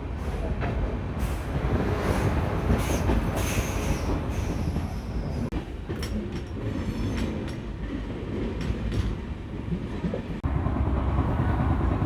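Passenger express train running at speed: a steady rumble of wheels on the rails with repeated clacks over rail joints. A brief high squeal comes about three to four seconds in, and the low rumble grows louder near the end.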